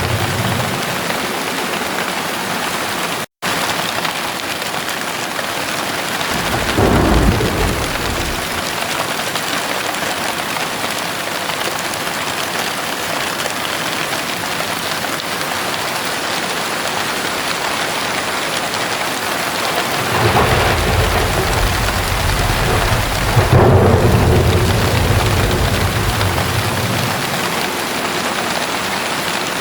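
Heavy rain falling steadily, with rolling thunder: a short rumble about seven seconds in and a longer one swelling from about twenty seconds in and peaking near twenty-four. The sound cuts out for an instant about three seconds in.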